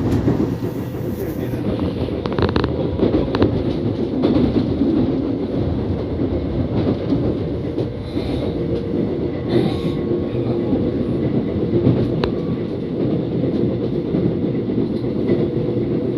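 Inside a Seoul Subway Line 1 express train car while it runs between stations: a steady rumble of the wheels on the track, with occasional clicks and knocks from the rails.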